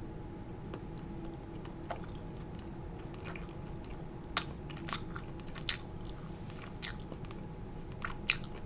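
A person chewing a bite of fried chicken with the mouth closed, close to the microphone: soft chewing with a few scattered small crunches and clicks, most in the second half, over a steady low hum.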